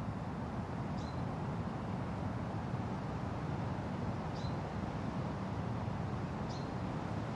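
Steady wind blowing through a forest, a low, even rush, with a small bird giving a short, high chirp that drops in pitch three times, a few seconds apart.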